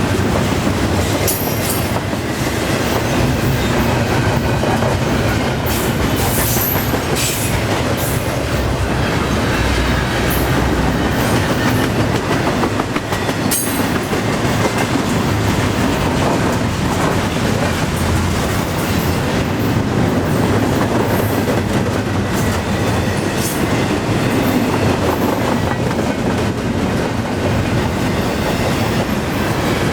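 Freight cars of a long CN train rolling past at about 34 mph: a steady rumble and clatter of steel wheels on the rails, with brief high wheel squeals a few times.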